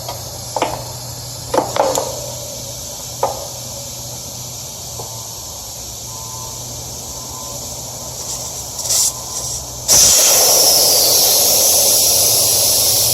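A few light clicks and knocks of tools on a service port, then about ten seconds in a sudden loud hiss of pressurised gas rushing out of the refrigerant line, easing off slowly. The line's held test pressure is being let off at the service port as the valve core comes out.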